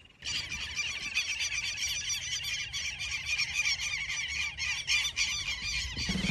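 A flock of birds calling and squawking all together in a dense, continuous chatter. It starts abruptly and cuts off suddenly near the end.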